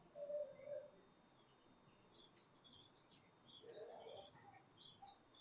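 Small birds chirping faintly in the background: clusters of quick, high chirps from about two seconds in. A brief low hum sounds near the start.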